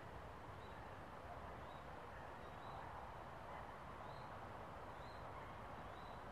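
Faint, steady outdoor background noise with a short, faint high bird call repeated roughly once a second.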